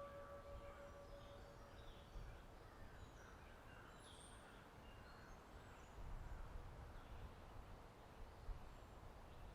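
Faint outdoor ambience: scattered birds chirping over a low wind rumble that swells about six seconds in. The tail of a ringing bell dies away in the first second or so.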